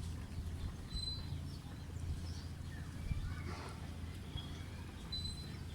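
A few short, high bird chirps, about a second in and again near the end, over a steady low rumble.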